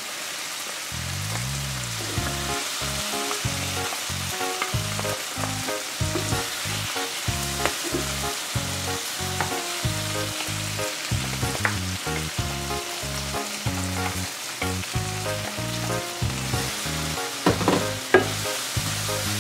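Cubed tofu and bell peppers sizzling steadily in a hot nonstick frying pan as they are stirred with a wooden spatula, with a few sharper scrapes of the spatula near the end. Background music with a run of low notes plays underneath.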